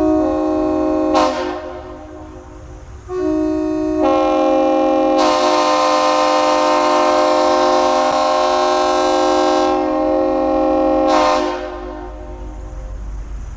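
Nathan Airchime raised-letter K3HL three-chime air horn (bells 1L, 1 and 2) blowing a loud three-note chord. A short blast ends about a second in, then a long blast starts about three seconds in and holds for roughly eight seconds before cutting off.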